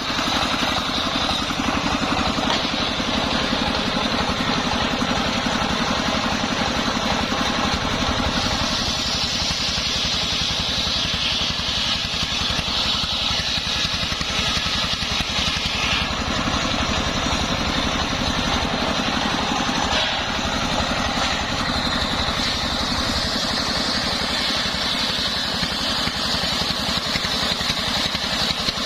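Homemade engine-driven circular saw rig running steadily, with a high whine that grows stronger twice for several seconds at a time.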